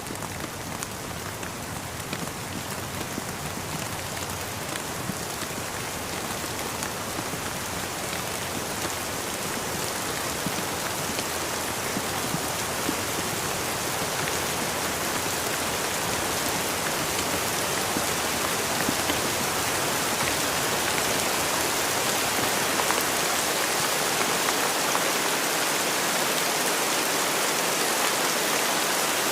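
Steady rain falling, a dense patter of drops on surfaces that slowly grows louder and hissier over the span.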